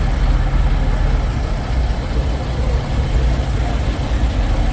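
Steady low rumble of semi-truck diesel engines idling.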